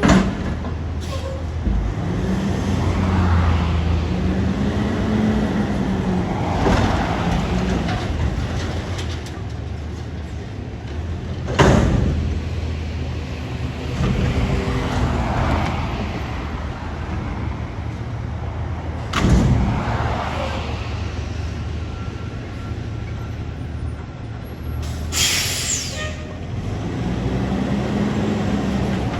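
Garbage truck at work: its diesel engine revving up and falling back in repeated swells, with two loud bangs and a short air-brake hiss near the end.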